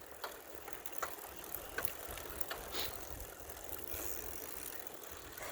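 Bicycle coasting: the rear hub's freewheel ticking as the wheels roll without pedalling, over a low steady rumble.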